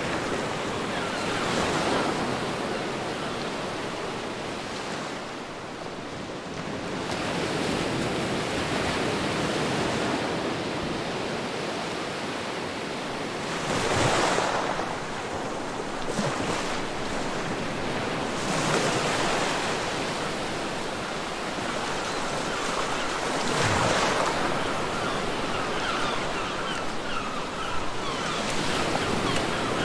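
Ocean surf washing onto a beach, a steady rush that swells and ebbs with each wave, about every five to six seconds.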